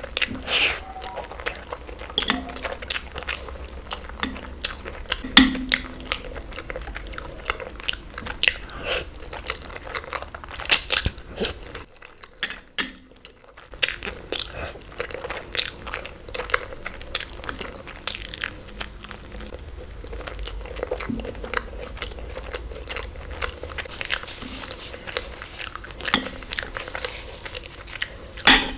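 Close-miked eating sounds: a person biting and chewing food, with many irregular crunches and clicks. There is a brief quiet break about halfway through.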